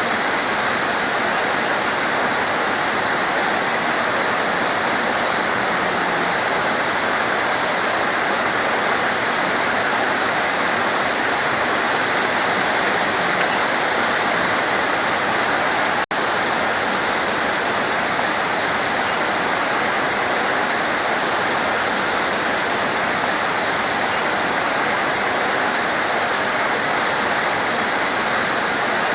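Heavy rain pouring down steadily, an even rushing hiss with no let-up. The sound cuts out for a split second about halfway through.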